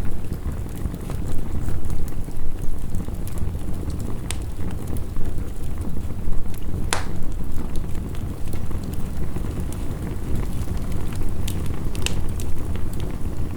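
Heavy rain and a crackling wood fire: a steady low wash of rain under scattered sharp crackles and pops, the loudest pop about seven seconds in.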